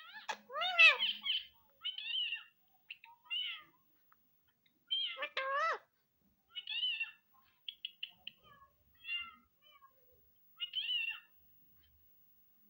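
A string of cat-like meows: about a dozen short calls with quiet gaps between, the two loudest and longest, falling in pitch at the end, about a second in and about five seconds in.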